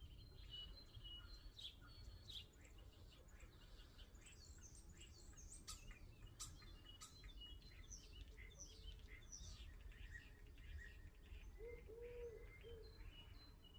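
Common starling song, faint: a rambling jumble of high whistles, quick downward-sweeping chirps and clicks, with a short low warbling note near the end.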